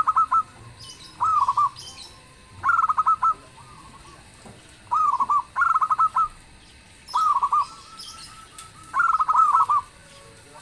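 Zebra dove (perkutut) cooing: short rippling phrases of rapid notes, repeated about seven times, every one to two seconds.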